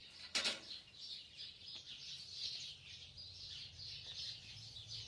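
Small birds chirping continuously in many quick overlapping notes, with a single sharp click about half a second in.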